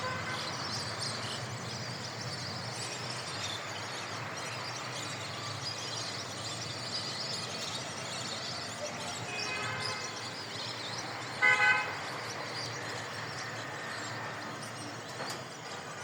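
Steady outdoor background noise with a vehicle horn sounding a loud double toot about eleven and a half seconds in, after a fainter horn note a couple of seconds earlier.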